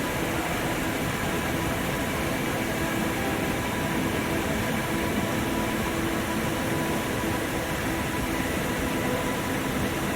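Steady, unbroken rush of water pouring down a two-tiered waterfall about 20 m high.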